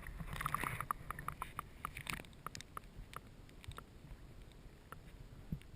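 Water dripping and trickling back into the lake in quick small plinks and light clicks, thick at first and thinning out after about two seconds, as a small black bass is released from the kayak.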